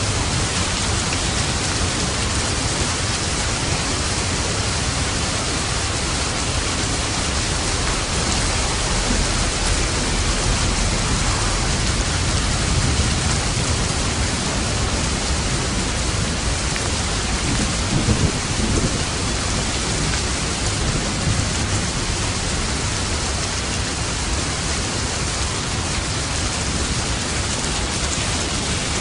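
Steady rain falling, with low rumbling thunder underneath and a short louder swell about two-thirds of the way through.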